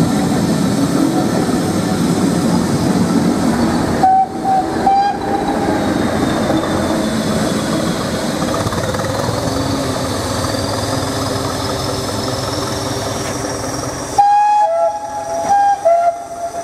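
Hastings Class 202 diesel-electric multiple unit running past and pulling away, its English Electric diesel engine and wheels rumbling steadily. Two short horn blasts sound about four seconds in, a faint whine rises in pitch in the middle, and near the end a two-tone horn sounds several alternating high and low notes.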